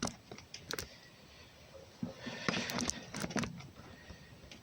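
Hands and tools working among the engine's metal parts: a few sharp clicks near the start, then a busier stretch of clicks and light knocks with rustling about two seconds in.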